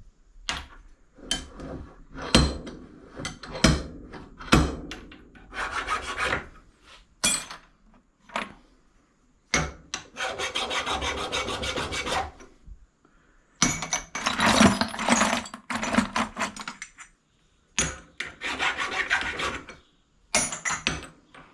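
Brass plumbing fittings being scratched with a hand tool in repeated rasping strokes: short scrapes at first, then longer runs of scraping a few seconds each. The scratching exposes bare metal to show whether the brass is red or yellow and clean.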